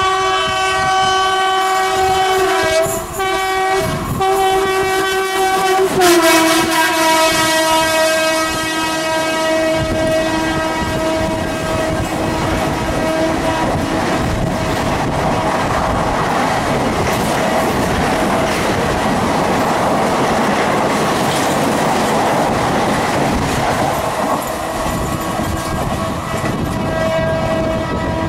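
Indian Railways locomotive sounding a long chord horn as it approaches; the pitch drops as it passes, then the coaches roll by with a clickety-clack over the rail joints, and the horn sounds again near the end.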